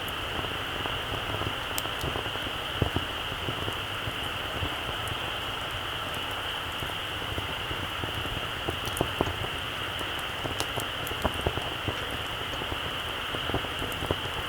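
Very small campfire crackling: scattered small crackles and a few sharper pops over a steady high hiss.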